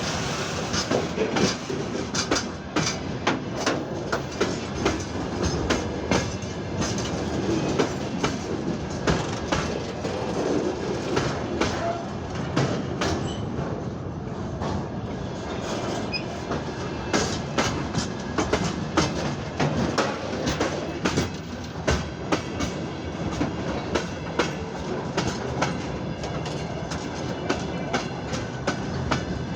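Freight train rolling past: wagon wheels clatter over rail joints in a steady stream of sharp clicks over a continuous rumble.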